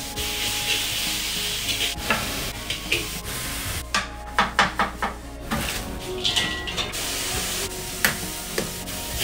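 Beef sizzling in a wok with a steady hiss, under a kitchen knife working on a wooden chopping board. About four to five seconds in, a quick run of sharp knocks as the blade chops down through a cabbage onto the board.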